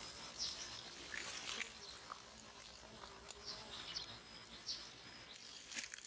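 Quiet forest background with a few faint, short, high chirps from small birds.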